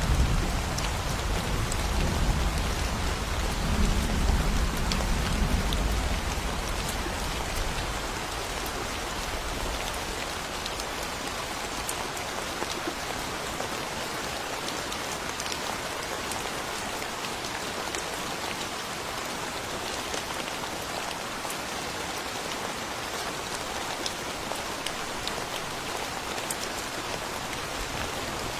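Steady thunderstorm rain falling in a forest, an even hiss with individual drops ticking through it. A low rumble of thunder dies away over the first several seconds.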